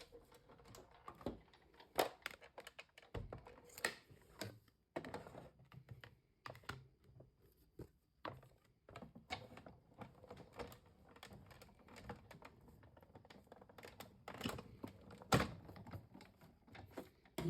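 Faint, irregular clicks and knocks of a hand-cranked die-cutting and embossing machine (Stampin' Cut & Emboss) rolling cardstock inside a 3D embossing folder through its rollers, with the plastic folder being handled.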